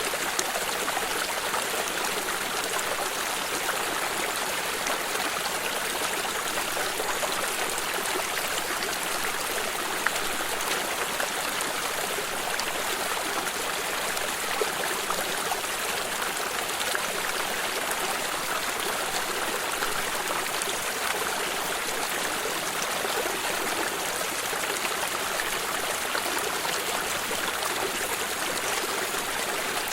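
A small stream running over stones, a steady rushing babble with light trickling splashes.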